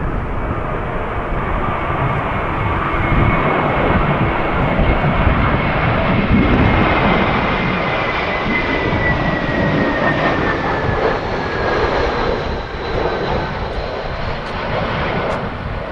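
Jet airliner's engines passing close by, a steady loud rush with a thin whine that slowly falls in pitch as the aircraft goes past, with gusty wind rumbling on the microphone.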